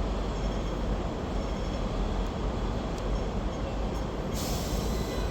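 Hong Kong double-decker electric tram running, with a steady rumble of wheels on rails. A higher hiss comes in suddenly near the end.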